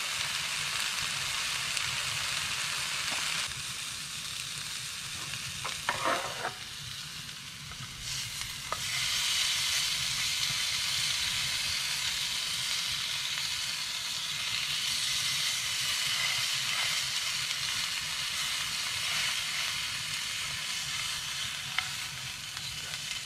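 Deer steaks sizzling in a hot frying pan. The sizzle eases for a few seconds and then comes back louder, with a few sharp clicks of metal tongs against the pan.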